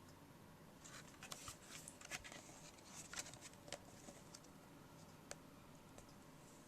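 Near silence: room tone, with faint scattered clicks and light rustling during the first few seconds.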